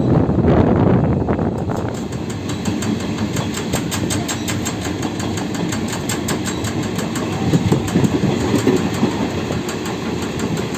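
Passenger train running at speed, heard from beside an open carriage window: a steady rumble and rush of air, with a rapid, regular clickety-clack of the wheels over the rail joints setting in about two seconds in.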